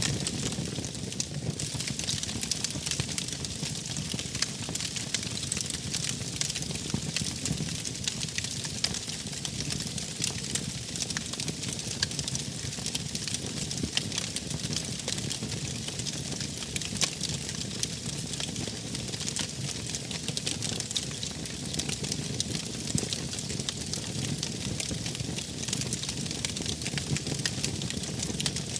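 Wood fire in a fireplace burning steadily, with frequent small crackles and pops over a low rumble of the flames.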